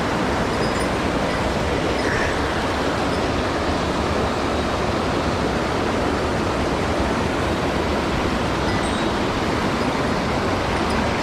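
Mountain stream rushing over rocks: a loud, steady rush of water that does not let up.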